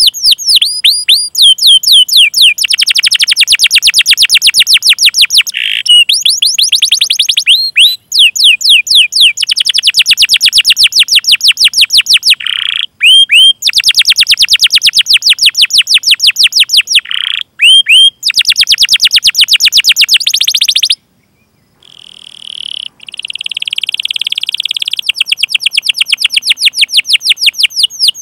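Domestic canary singing a long song of fast, evenly repeated chirps ('cuit cuit' calls) and rolling trills, broken by short pauses, with a silent gap of about a second roughly three-quarters of the way through.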